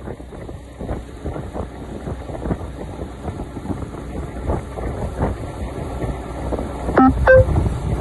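Wind buffeting the microphone of a moving motorcycle, over a low road rumble. Near the end come two short, pitched beeps about a third of a second apart.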